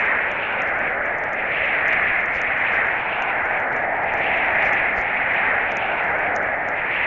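Steady rushing of storm wind, swelling and easing every couple of seconds, with faint light ticks scattered over it.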